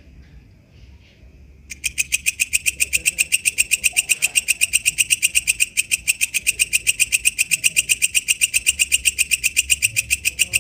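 Walang kecek insect calling: a fast, even train of shrill clicking pulses, about eight a second, starting about two seconds in.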